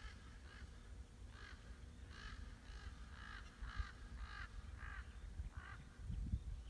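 Common ravens calling: a series of about ten short, harsh caws, one every half second or so. A low rumble runs underneath and swells near the end.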